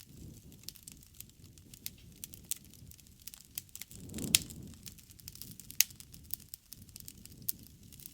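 Wood campfire crackling: irregular sharp pops over a low rush of flames, with two louder pops about four and six seconds in.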